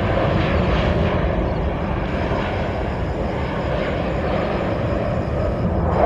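Airliner engines heard as a steady rushing noise over a low rumble.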